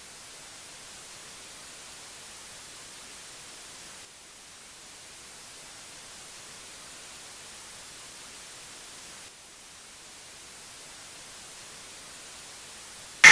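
Steady static hiss, like white noise, with slight dips in level about four and nine seconds in.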